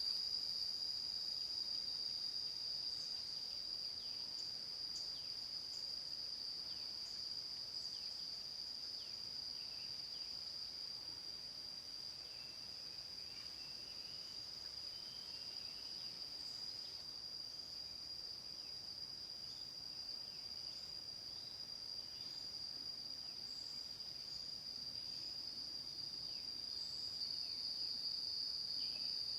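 Unbroken, high-pitched drone of a chorus of jungle insects, holding one steady pitch, slightly fainter in the middle and louder again near the end.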